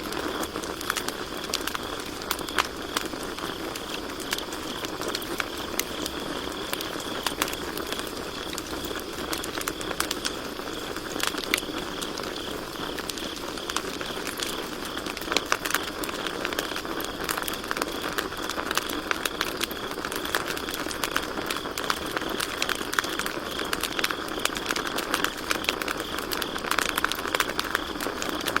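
Campfire crackling and popping, with many irregular sharp snaps over a steady hiss of burning wood, and crickets chirping steadily in a high, pulsing trill underneath.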